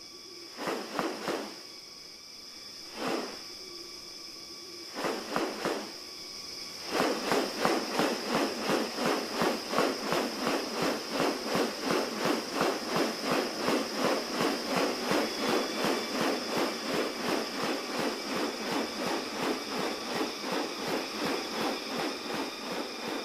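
Rainforest insects: a steady high-pitched drone, with a few separate pulsed calls at first. About seven seconds in, a fast, even run of pulsed calls starts, about three a second, and keeps going.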